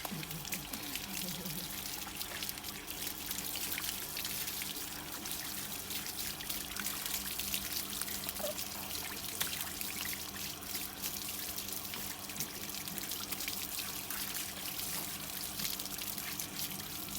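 Running water pouring and trickling steadily while a puppy is washed under it.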